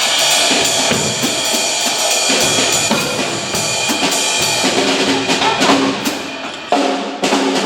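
Drum kits played together in a fast duet: rapid strokes on snare and bass drum with ringing cymbals, and held pitched notes entering about halfway through.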